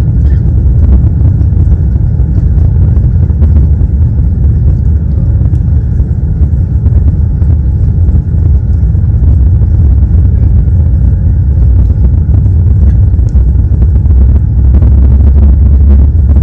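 Boeing 787 Dreamliner's jet engines heard inside the cabin as a loud, steady low rumble, growing a little louder near the end.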